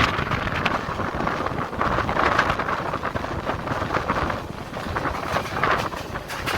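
A moving passenger train, heard from aboard: a steady running rumble with wind buffeting the microphone in uneven gusts.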